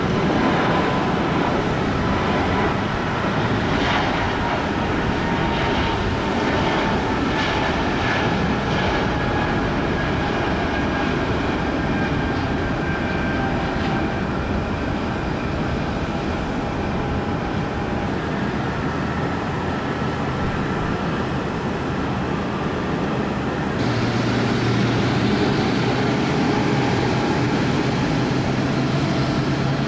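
Jet airliner engines running, a steady rush with whining tones that slowly fall in pitch. The sound changes abruptly about three-quarters of the way through, and a low hum comes in.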